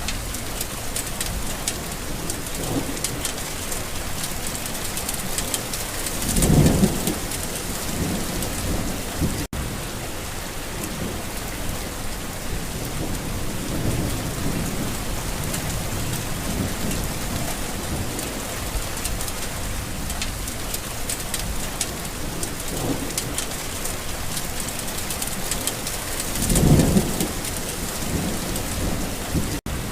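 Steady rain with rolls of thunder; two louder low rumbles come about six and a half seconds in and near the end, with fainter rumbles between. The sound drops out for an instant twice.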